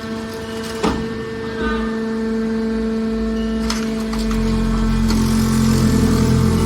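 Hydraulic scrap metal baler running: a steady hum from the machine, with a sharp knock about a second in and another near four seconds. After about four seconds a deeper, louder rumble sets in.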